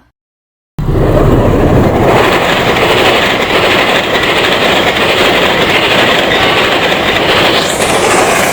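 A train running on the rails: a loud, steady rumble and clatter that starts abruptly about a second in.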